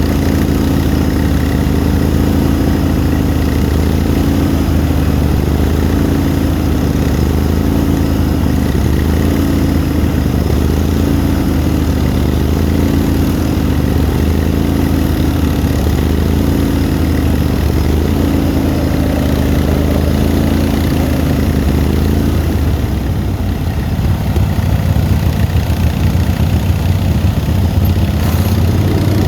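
Honda HTR 3009 lawn tractor's engine running steadily, its pitch wavering gently up and down. About two-thirds of the way through, the even tone gives way to a rougher, noisier, slightly louder sound.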